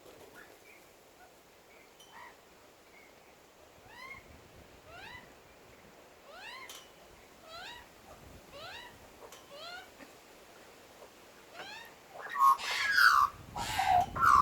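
Birds calling from a tree: a run of short rising calls, about two a second, followed near the end by louder, harsher calls.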